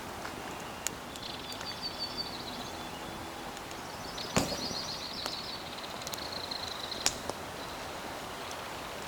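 Outdoor ambience with two runs of rapid high trilled notes like a bird's calls, and scattered sharp clicks and knocks; the loudest knock comes about four seconds in.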